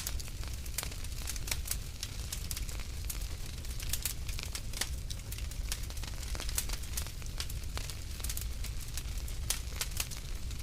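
Wood fire in a fireplace crackling, with many sharp, irregular pops and snaps over a steady low rumble of the flames.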